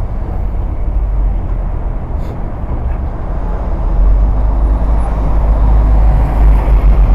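Loud, steady low rumble of city street traffic, growing louder about four seconds in.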